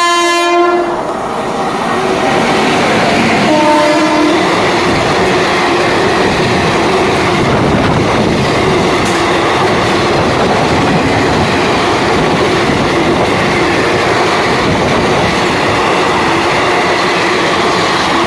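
Indian Railways passenger train running through a station at speed. The locomotive's horn sounds at the start and again briefly about four seconds in, then a long steady rush and clatter of the coaches' wheels going past on the rails.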